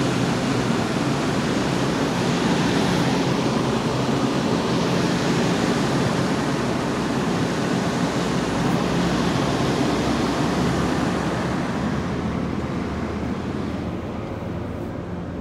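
MBTA commuter rail train of bilevel coaches rolling past, a steady rush of wheel and rail noise that fades over the last few seconds as the train moves away.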